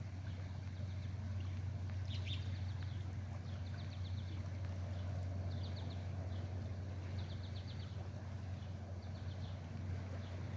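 A bird calling in short, rapid trills, about five times, over a steady low hum.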